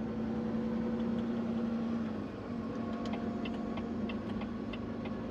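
Semi-truck engine heard from inside the cab while driving, a steady hum whose pitch dips and shifts slightly about two seconds in. A run of light, evenly spaced ticks starts about halfway through.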